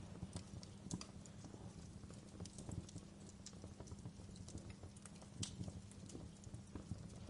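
Wood fire crackling: irregular small snaps and pops, a few sharper ones, over a low steady rumble.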